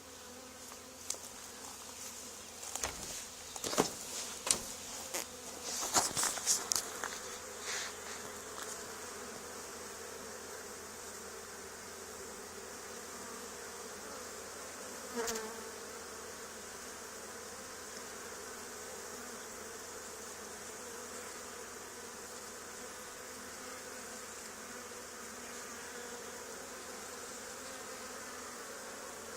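A swarm of honey bees buzzing steadily. Several sharp clicks or knocks stand out over it in the first several seconds, with one more about fifteen seconds in.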